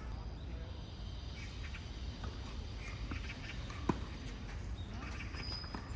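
A tennis ball struck once by a racket, a single sharp pop about four seconds in, over a steady low rumble of background noise. Faint short chirps are heard before it.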